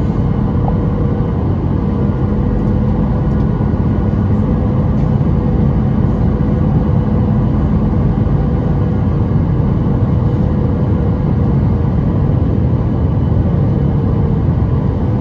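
Steady cabin noise inside a Boeing 737-800 airliner: engine and airflow noise as a constant low rumble with a faint steady hum, unchanging throughout.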